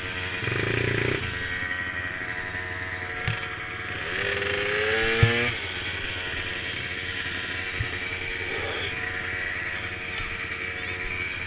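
Small mini quad engines running steadily, with one revving up in a rising whine about four seconds in that cuts off after a second and a half. A few sharp knocks, the loudest just as the rev peaks.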